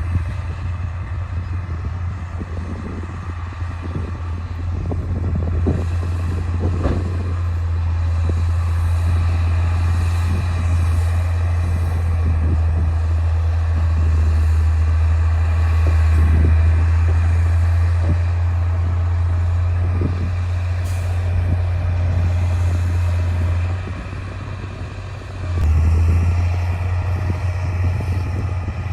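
D60 bulldozer's diesel engine running with a steady deep drone, with scattered knocks and clanks. Near the end the engine eases off for a moment, then picks up again.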